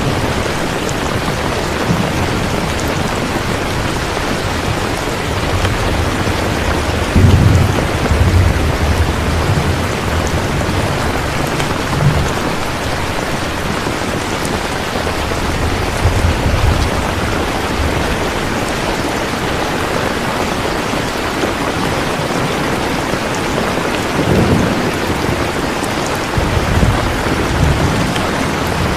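Steady heavy rain hissing, with low rolls of distant thunder rumbling several times.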